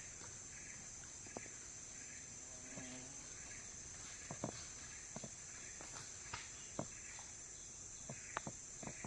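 Jungle insects make a steady high buzz, with chirps repeating about every half second. Scattered light footsteps and snaps sound on the forest floor, and a short pitched animal call comes about three seconds in.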